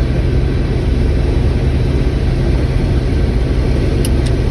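Combine harvester running while harvesting corn: a steady low engine drone heard from inside the cab. Two brief faint ticks come about four seconds in.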